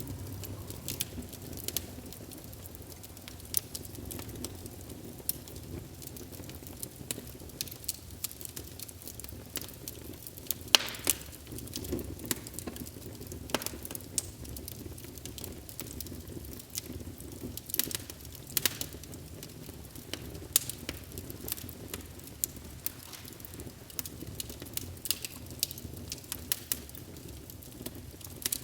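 Wood fire burning in a fireplace, a steady low rumble of flames with irregular sharp crackles and pops several times a second, one louder pop about eleven seconds in.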